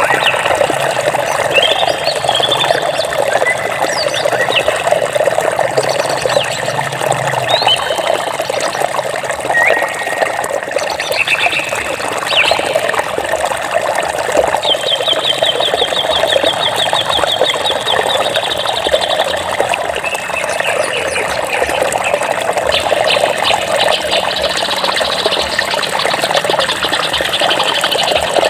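Running water flowing steadily, with songbirds chirping and whistling over it; about halfway through, one bird gives a rapid trill lasting several seconds.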